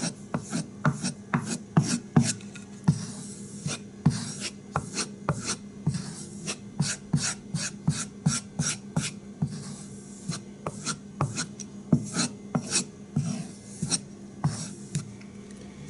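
A CPM-3V steel knife blade stroked again and again on a strop loaded with white polishing compound, quick even rubbing strokes about three a second, the final finishing of the edge. A faint steady hum lies underneath.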